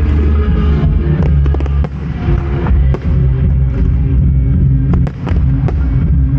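Fireworks display going off: a run of sharp cracks and bangs over a continuous heavy low rumble.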